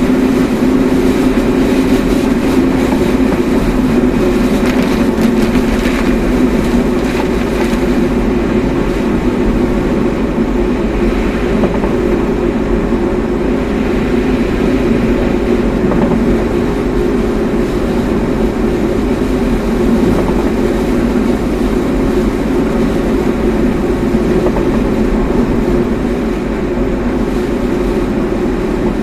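Steady engine and road noise of a car being driven, heard from inside the cabin: a constant low drone with tyre rumble.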